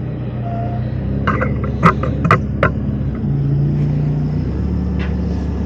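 A motor vehicle engine running steadily, its low hum shifting pitch a couple of times as it changes speed. A few sharp clicks sound about two seconds in.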